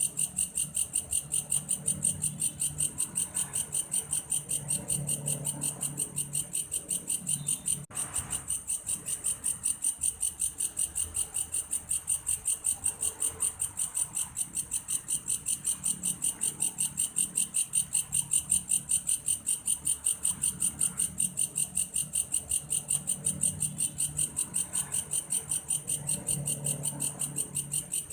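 A belalang kayu insect singing a continuous, rapid pulsed high chirping, about five pulses a second, like a cricket's song. It breaks off briefly once, and a faint low rumble comes and goes underneath.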